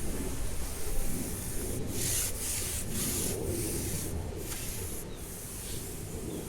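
Rustling and rubbing close to the microphone in short repeated scrapes, over a low steady wind rumble.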